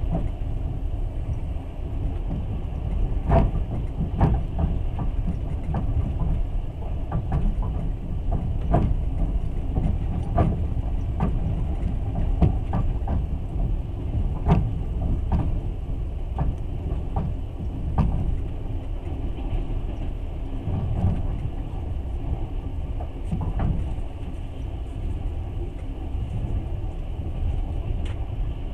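Passenger train carriage rolling along the track, heard from inside: a steady low rumble of wheels on rails with irregular clicks and knocks throughout.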